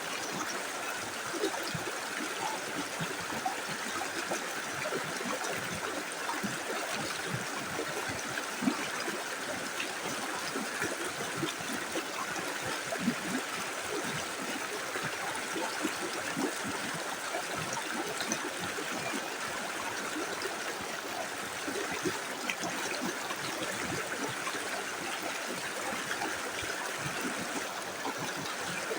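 A small river flowing steadily over stones, a continuous rushing and trickling with many small splashes and gurgles.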